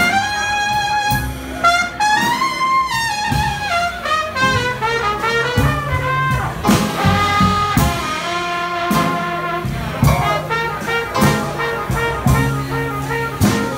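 Jazz band playing: a cornet leads a moving melody over a walking bass line and a steady drum beat.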